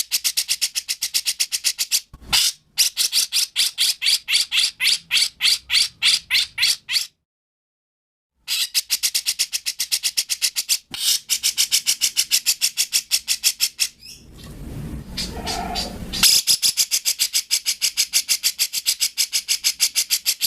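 A songbird repeating a rapid series of short high notes, about four a second, in runs that stop and start abruptly. About two-thirds of the way through, a lower, rougher call breaks in for about two seconds before the rapid notes resume.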